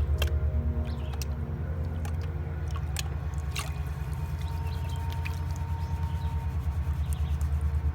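Gold pan being worked in water: water sloshing, with a few sharp clicks of gravel against the pan, over a steady low rumble.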